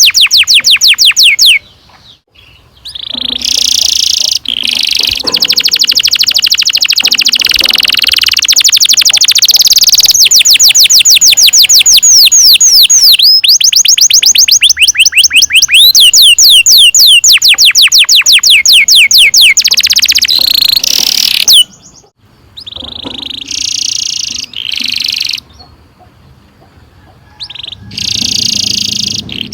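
Domestic canary singing long, fast rolling trills of rapidly repeated notes, in long phrases with a few short breaks.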